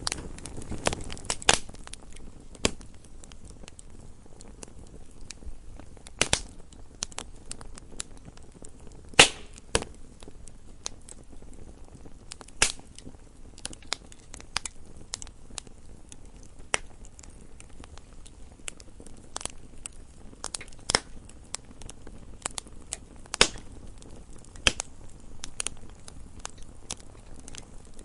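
Wood fire crackling in a fireplace: irregular sharp pops and snaps over a soft steady hiss, the loudest pop about nine seconds in.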